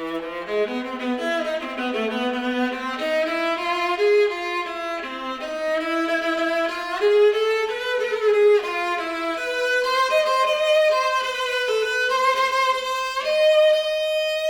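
Solo viola playing a Middle Eastern-style melody as a single line, with sliding notes between pitches; it comes in right after a brief pause.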